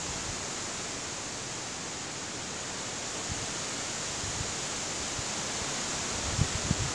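Strong wind blowing without a break, a steady rushing hiss, with a few brief low bumps near the end.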